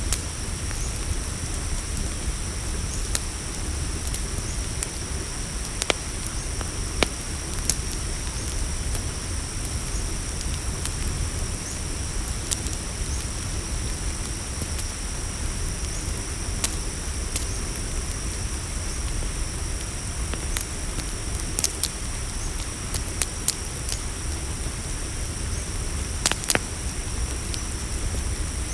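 Campfire crackling, with sharp pops every second or two over a steady hiss, while crickets keep up a continuous high trill.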